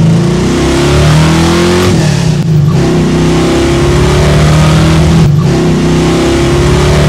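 A modified 1964 Chevrolet Nova's 430-horsepower engine accelerating hard through the gears of its five-speed: the engine note climbs in pitch, breaks off briefly at two upshifts, about a third and three-quarters of the way through, and climbs again after each.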